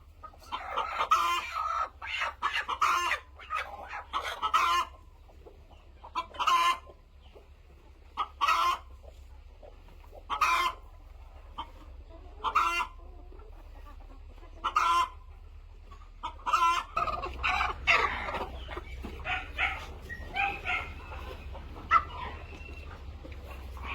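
Chickens clucking: short calls in a quick run at first, then single calls about every two seconds, then several birds calling over one another near the end.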